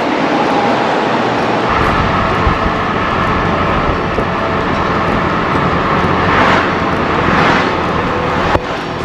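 Steady road and engine noise of a car driving, heard from inside the cabin. A deeper rumble comes in about two seconds in, and the sound changes abruptly near the end.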